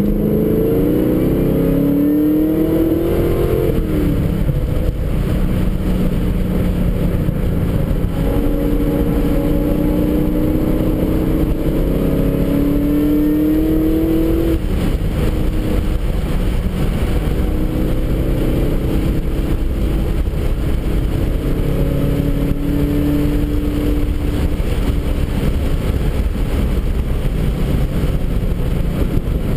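Car engine heard from inside the cabin, accelerating hard. The revs climb and fall away suddenly about four seconds in, then climb again in a longer pull that drops off sharply around halfway. After that the engine runs steadier under heavy wind and road rumble.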